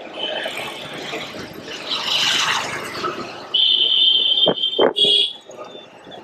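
City street traffic: a vehicle passing midway, then a shrill high note held for about a second and two sharp knocks.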